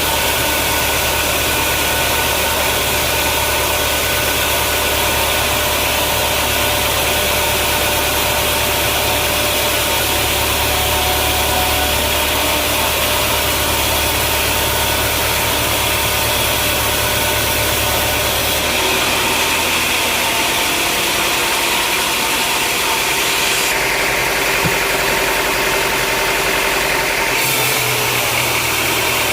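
Sawmill machinery running with a steady, loud mechanical noise. Its sound shifts abruptly a few times: once about two-thirds of the way through, and twice more near the end.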